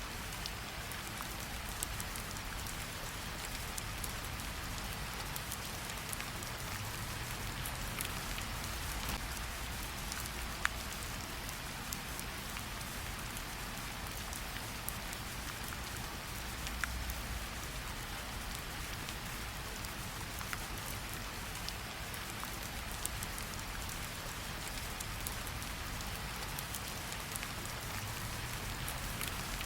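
Steady rain falling: an even hiss, with scattered sharp ticks of single drops landing close by.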